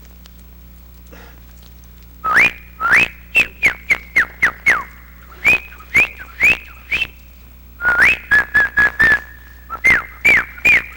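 A person whistling an imitation of a pyrrhuloxia's song. After about two seconds of quiet comes a series of sharp upslurred whistled notes, some running into a held high tone, with a quick run of short, lower notes about eight seconds in.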